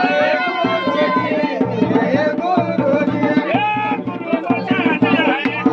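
Dhol and damau drums playing a fast, steady rhythm, with a pitched melody line running over the drumming.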